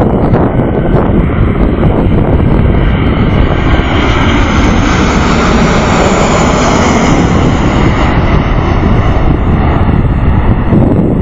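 Boeing 737-800's CFM56-7B jet engines running at high power on takeoff: a loud, steady roar that grows brighter and hissier around the middle, then eases off.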